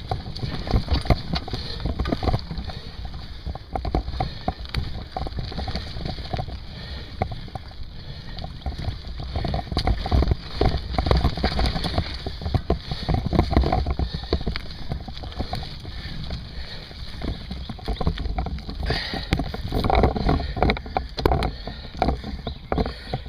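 Wind buffeting the microphone with a steady low rumble while a mountain bike is ridden, with many irregular rattles and knocks from the bike going over rough ground.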